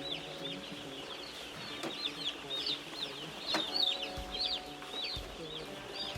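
A flock of broiler chicks peeping continuously: many overlapping short, high, downward-sliding cheeps.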